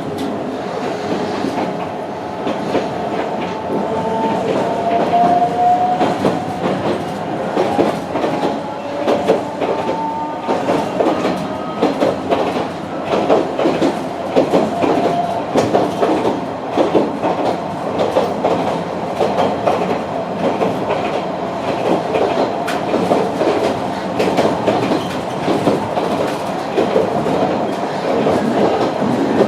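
Sound inside a passenger car of a 762 mm narrow-gauge Sangi Railway Hokusei Line train under way: a steady rumble of wheels on the rails with a running clickety-clack of knocks over rail joints. Between about four and eleven seconds in, faint rising tones come through the rumble.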